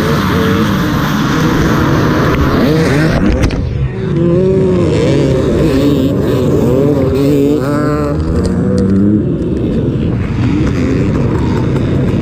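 Off-road motorcycle engine under race riding, its pitch rising and falling again and again as it revs up and shifts, with a brief drop in power about four seconds in.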